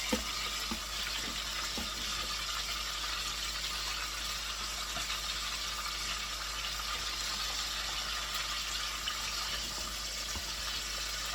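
Flour-dredged chicken pieces frying in hot oil, a steady sizzle.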